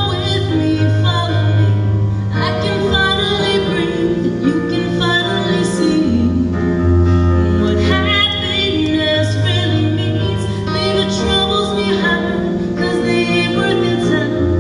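A slow ballad: a woman singing over instrumental accompaniment, with long held bass notes that change every few seconds.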